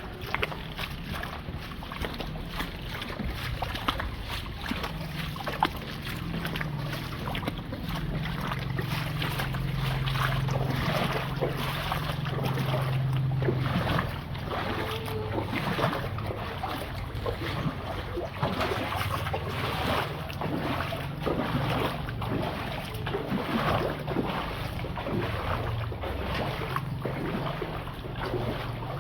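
A small engine running steadily with a low hum, louder for a stretch from about five to fourteen seconds in, over constant splashing and sloshing of water.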